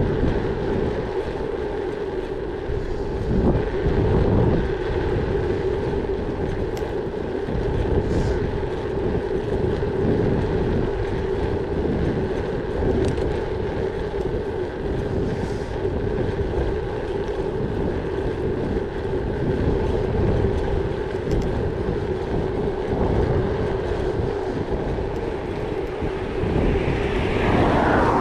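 Gravel bike riding along: a steady hum from the tyres rolling, with wind buffeting the microphone. Near the end a louder sound rises and falls away.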